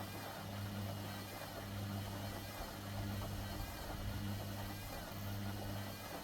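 Hoover WDYNS654D washer-dryer running a wash cycle: a steady low motor hum with an even rushing noise over it.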